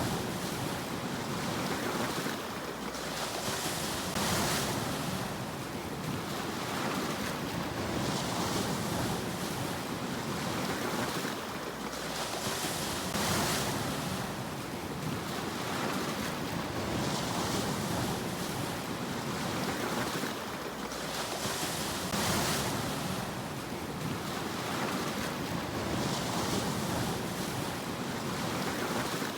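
Sea waves washing ashore in a continuous surf noise, with a wave swelling and breaking about every four seconds.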